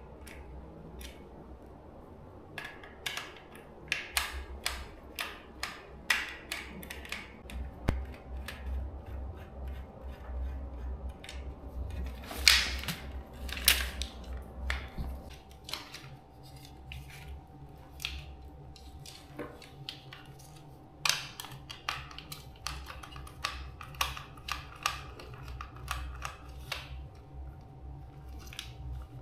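Irregular small clicks and light taps, as in hands working small parts during a repair, over a low steady hum. A faint steady tone comes in about a quarter of the way through.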